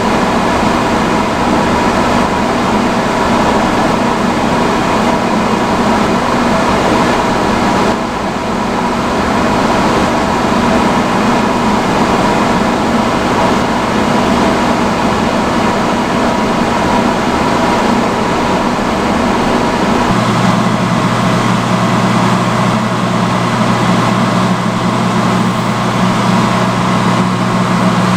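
Vintage salon chair hood hair dryer running on its highest setting: a loud, steady rush of blown air over a motor hum. About twenty seconds in, the pitch of the hum shifts.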